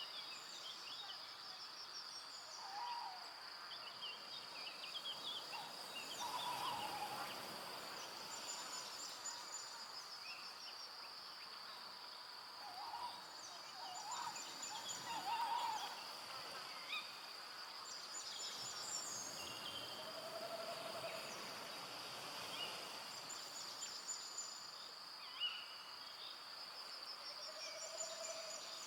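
Forest ambience at dusk: a steady high insect drone with scattered bird chirps and calls throughout, and two low, drawn-out hooting calls in the latter part.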